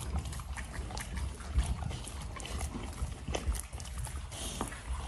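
Huskies chewing and licking at food, with irregular wet smacks and small clicks.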